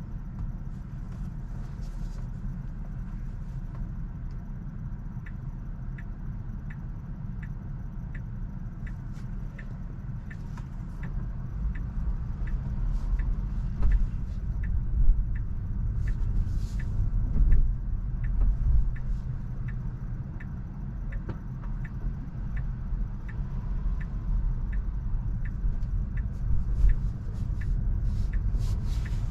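Low road and tyre rumble inside a Tesla's cabin as it drives, swelling for a few seconds in the middle. From about five seconds in, a turn-signal indicator ticks steadily, a little under twice a second, until near the end.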